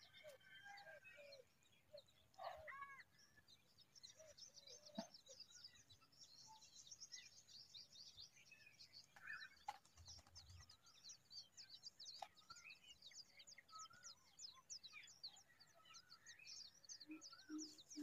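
Faint bird chirping: many quick, high, falling chirps, several a second, starting about four seconds in, with a few lower calls near the start.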